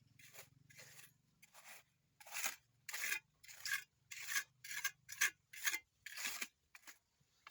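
Rasping strokes of a hand tool working wood, such as a saw or file. They come faint at first and then louder from about two seconds in, at roughly two a second.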